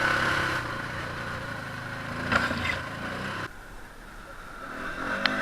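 ATV engine running steadily, with two sharp knocks; the sound drops off suddenly about three and a half seconds in, then the engine comes back up.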